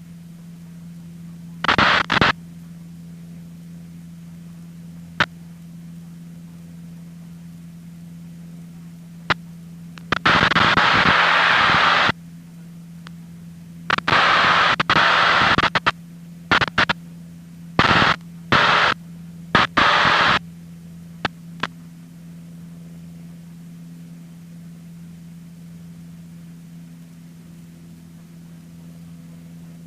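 Aviation radio static in a headset feed: several short bursts of hiss and a few sharp clicks, plus two longer bursts of about two seconds each, over a steady low hum.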